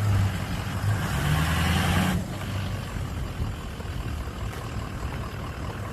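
A motor vehicle's engine running close by, its pitch rising for a moment about a second in. It cuts off abruptly a little after two seconds, leaving a fainter low rumble.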